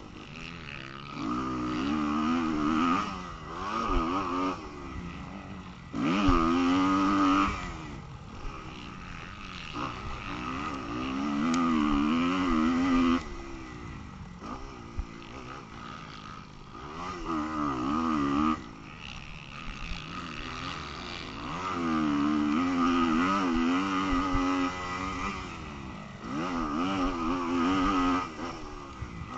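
Motocross bike engine revving hard in repeated bursts of one to three seconds, its pitch climbing and wavering, then dropping back between bursts as the throttle is opened and shut.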